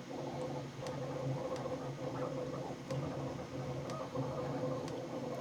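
A few faint, scattered computer mouse clicks, typical of toggling mirror settings in cutting software, over a steady low background hum.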